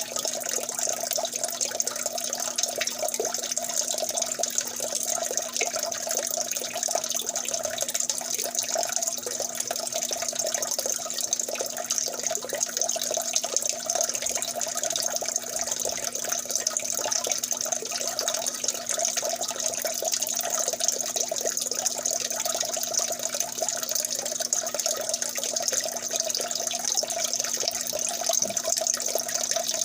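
Water trickling and dripping steadily, a dense, even patter of small drops and splashes that runs on without change.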